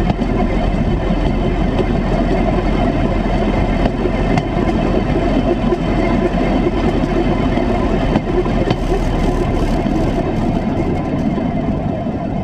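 Engine of a 1957 Series I Land Rover running steadily as it travels along the railway line on flanged rail wheels.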